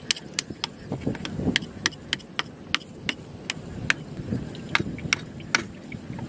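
A run of sharp, irregular clicks and knocks, a few a second.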